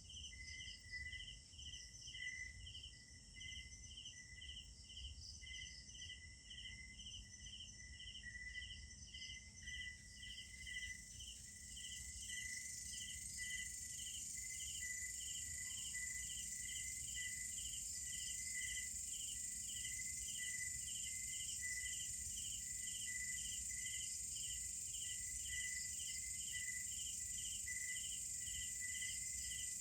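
Night insect chorus: crickets chirping in a steady rhythm, about two chirps a second, over a continuous high trill that grows louder about twelve seconds in. A low rumble runs underneath.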